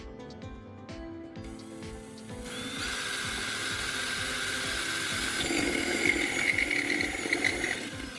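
Power drill with a step drill bit cutting through a stainless steel kettle body: a grinding, whining sound that comes in about two and a half seconds in. Background music with a steady beat plays under it.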